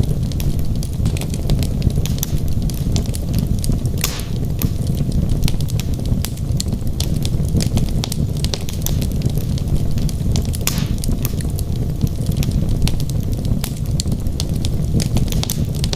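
Wood logs burning in a fireplace: a steady low rumble of the flames under constant sharp crackles and pops, with a couple of louder snaps about four and eleven seconds in.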